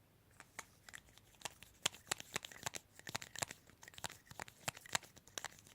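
Close, irregular crinkling and clicking of plastic being handled: many quick small crackles in an uneven run.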